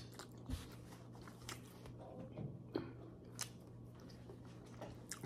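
A person chewing food close to the microphone: faint, scattered wet mouth clicks and lip smacks, with a low steady hum underneath.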